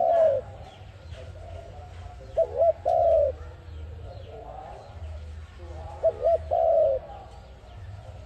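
A dove cooing: a repeated phrase of two short coos and then a longer drawn-out coo. The end of one phrase is heard at the start, and full phrases come about two and a half and six seconds in.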